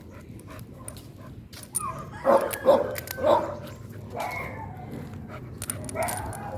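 A dog barking: a quick run of loud barks about two to three seconds in, then a few fainter barks, with sharp clicks between them.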